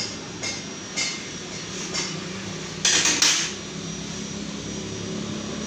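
Metal tools and parts clinking and tapping, a sharp knock every half second to second, then a louder burst of clatter about three seconds in, over a steady low hum.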